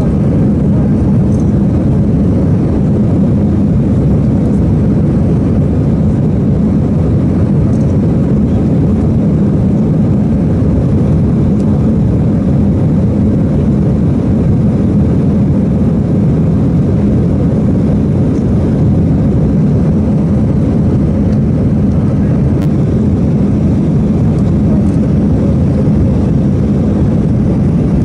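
Steady, loud cabin noise of an Airbus A318 airliner: a deep, even rumble of engines and airflow heard from inside the passenger cabin.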